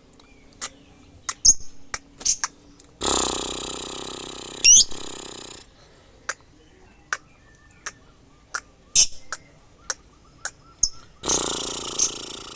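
Pet bird calling: scattered short, sharp chirps and clicks, a quick rising whistle, and two longer harsh, noisy calls, one about 3 seconds in lasting a couple of seconds and another near the end.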